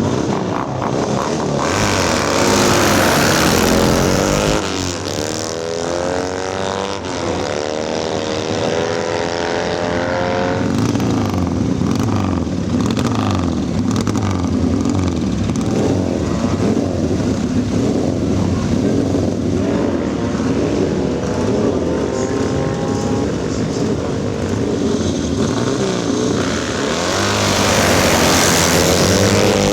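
Classic sprint motorcycle engines running hard: loud blasts of revving near the start and near the end, and between them a note that climbs in pitch several times in a row as a bike accelerates up through the gears, settling into a steadier engine drone.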